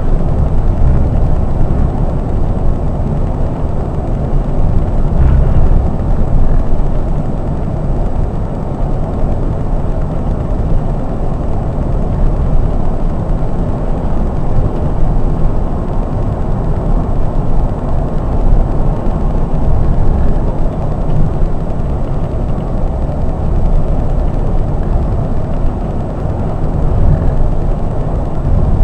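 Scania K420 coach's diesel engine and road noise while driving: a steady low rumble with a wash of tyre and wind noise, rising and falling slightly.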